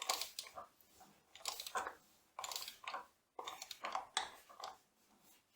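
About five short bursts of scraping and clicking from metal parts being worked by hand, as a bearing is worked out of the milling machine's gear shaft housing.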